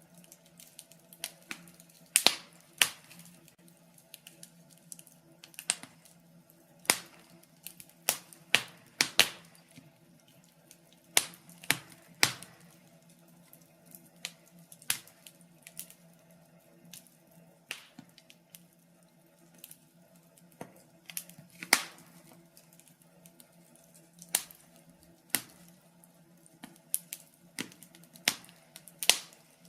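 Wood logs burning in a fireplace, crackling with irregular sharp pops, some much louder than others, over a faint steady hum.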